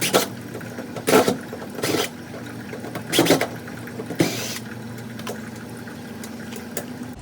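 Hand and tool work on a front-load washer's plastic housing: about five short knocks and scrapes in the first four and a half seconds, over a steady low hum.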